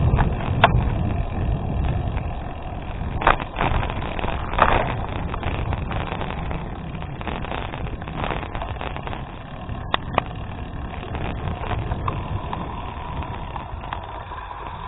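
Riding a gravel bike: wind buffeting the microphone and tyres rolling, with a few sharp clicks and rattles from the bike. The rumble eases off gradually as the bike slows.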